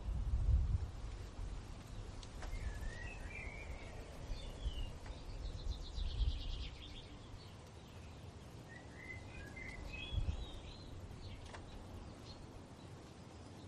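Songbirds singing: two warbling phrases with a fast trill between them, over a low, uneven rumble.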